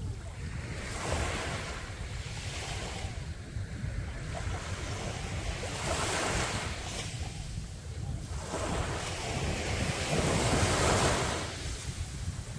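Sea waves breaking and washing up a beach, coming in three surges that swell and ebb, the last and loudest near the end. A steady low rumble of wind on the microphone runs underneath.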